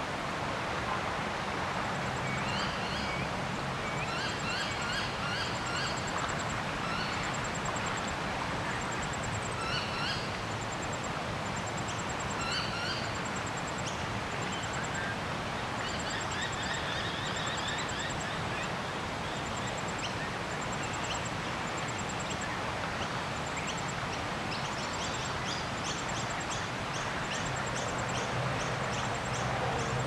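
Several wild birds calling: repeated short chirping phrases and a rapid high trill, over a steady outdoor background hiss.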